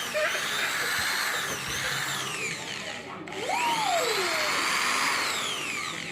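Electric drill running continuously as a polishing machine on a motorcycle, a steady whir that dips briefly about three seconds in.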